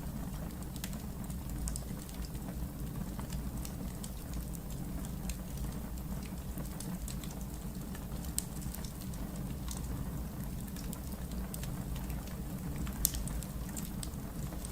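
Wood fire burning in a fireplace, crackling with scattered small pops over a low steady rumble. A sharper pop comes a little past halfway and another near the end.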